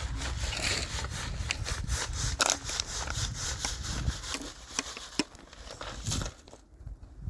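Rough scraping and rustling with many irregular sharp clicks, thinning out near the end.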